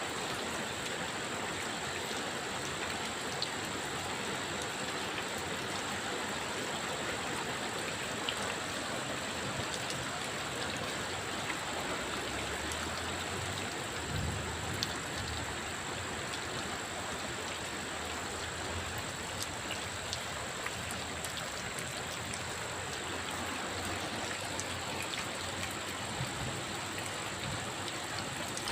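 Heavy rain falling steadily: a dense, even hiss with scattered sharp ticks of drops, and a brief low rumble about halfway through.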